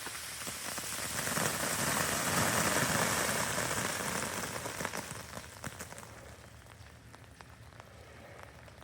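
Freezing rain and sleet pattering on ice-coated surfaces, a dense hiss full of tiny ticks. It swells to its loudest about two to three seconds in, then eases off.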